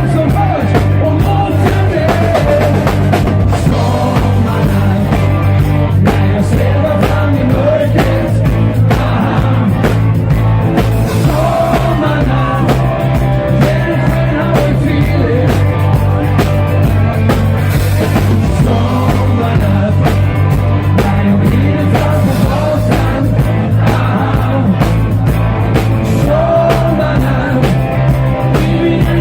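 A live band plays an upbeat song, with a steady drum kit beat and bass under the melody.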